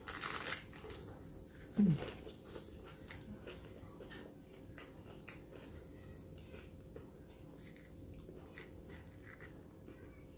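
A crunchy bite into a hard taco shell, followed by close-up chewing with many small crunches and mouth clicks. A short low hum from the eater about two seconds in.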